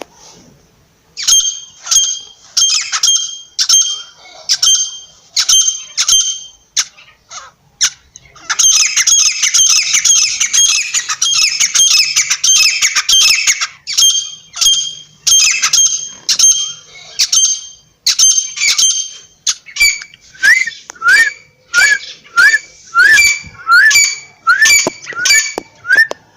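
Francolin (teetar) calling: loud, harsh calls repeated one to two a second, with a fast unbroken run in the middle and short rising notes near the end.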